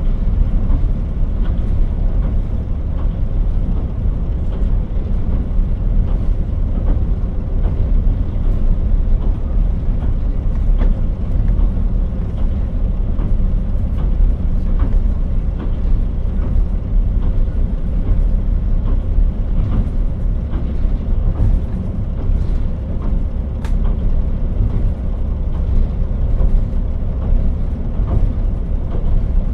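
KiHa 40 diesel railcar heard from inside the car while running: a steady low rumble of engine and wheels on the rails, with a few faint clicks scattered through it.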